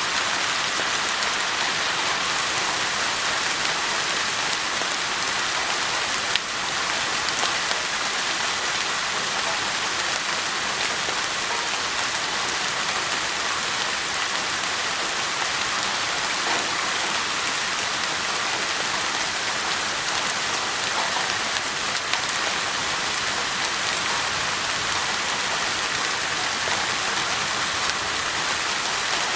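Steady rain falling on rose bushes: an even hiss of many drops, with a sharper single drop hit about six seconds in and another about twenty-two seconds in.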